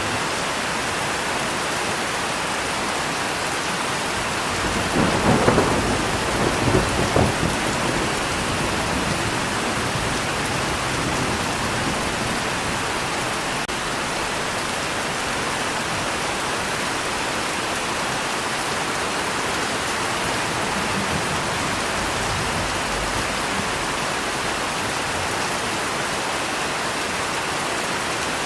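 Steady rain falling, with a peal of thunder about five seconds in that cracks and rumbles for two or three seconds before the rain carries on alone.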